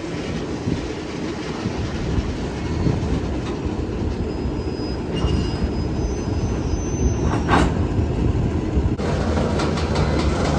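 Freight cars rolling past on the rails during switching: a steady low rumble with occasional clicks of wheels over the rail joints and a faint thin wheel squeal.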